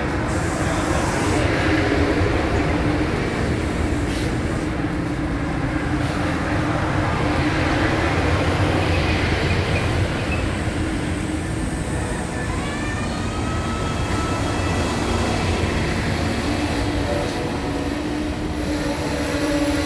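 Amtrak Auto Train cars rolling slowly past on the rail, a steady rumble of wheels and cars. About twelve seconds in, a high squeal joins it, rising in pitch and then holding.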